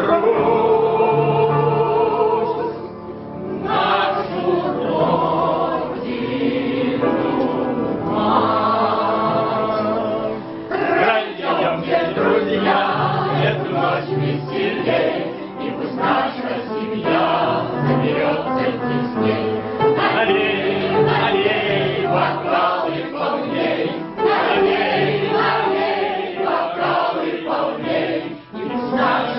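A group of voices singing a song together in chorus, holding sustained notes over a steady lower part.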